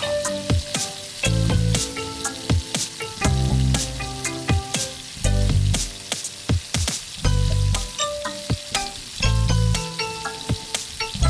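Food sizzling and crackling as it fries in a pan, under background music with a steady beat.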